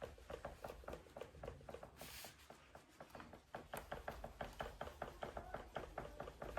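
Rapid, faint knocking from a Transition Spire Carbon GX's carbon frame rear suspension as the frame is repeatedly loaded by hand, several knocks a second. The noise is suspected to come from the rear shock or its lower shock linkage.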